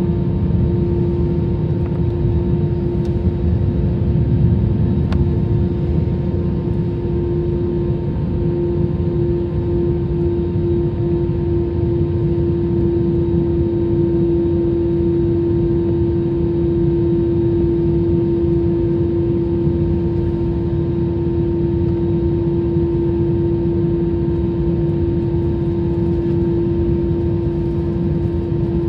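Jet airliner cabin noise: a steady low engine rumble with a strong, steady hum above it.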